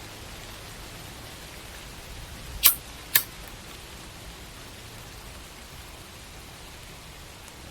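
Steady hiss of background noise, broken by two sharp clicks about half a second apart, a bit under three seconds in.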